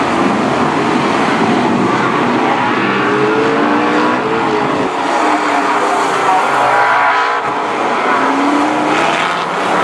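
A pack of BriscaF1 stock cars racing, their big V8 engines revving up and down in pitch as they go through the bends, with several engines sounding at once.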